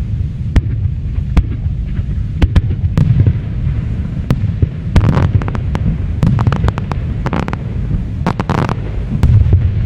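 Aerial fireworks going off: a steady low rumble of bursts with sharp cracks scattered through it. The cracks thicken into fast crackling runs about halfway through and again near the end.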